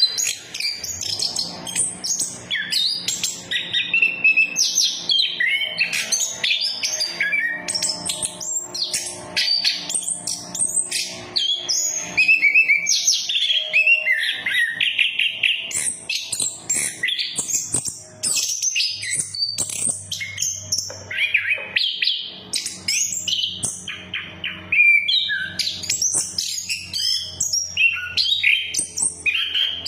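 Chestnut-capped thrush (anis kembang) singing on and on: a fast, varied stream of chirps, trills and whistled phrases with hardly a pause. A faint low hum runs underneath.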